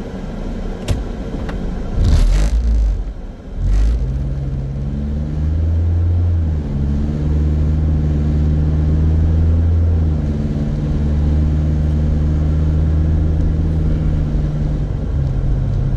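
Small car's engine running steadily under way, heard from inside the car as a low, even hum. A few loud thumps come in the first four seconds before it settles.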